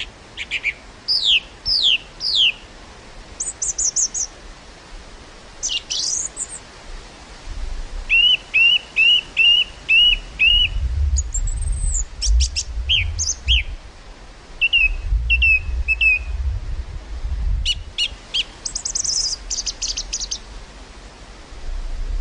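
Several songbirds singing and calling in the open, a mix of short falling whistles, quick trills and a run of six short chirps in a row. Wind gusting on the microphone adds a low rumble through the middle of the stretch.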